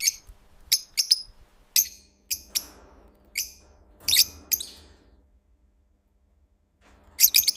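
Lovebirds chirping: short, sharp, high-pitched chirps in a run of about a dozen over the first five seconds, then a pause and a quick burst of chirps near the end.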